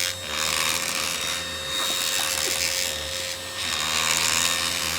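SWDK cordless handheld UV vacuum cleaner running with a steady motor hum, its head pushed back and forth over bedding in repeated rubbing strokes.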